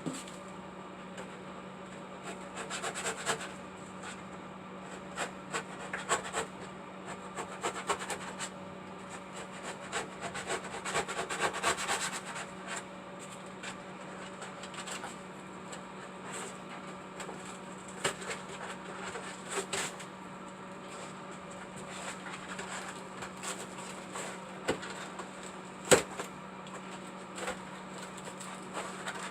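Hand work on building materials: bouts of rubbing and scraping, scattered clicks and knocks, and one sharp knock about 26 seconds in, over a steady low hum.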